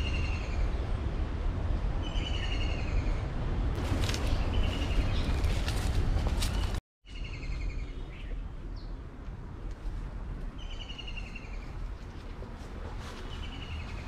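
A bird calling repeatedly. Each call is a short, quick run of notes falling slightly in pitch, about half a second long, repeated every two to three seconds over a steady low rumble. The sound cuts out completely for a moment about halfway through.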